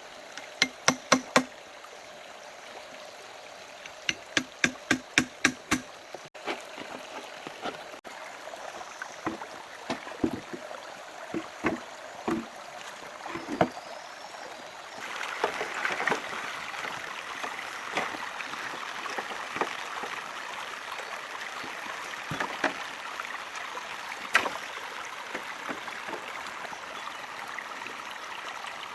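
Hard knocks of a tool striking wood: two quick runs of strikes near the start, about four a second, then scattered single knocks. About halfway through a steady rushing noise like running water comes up and continues under a few more knocks.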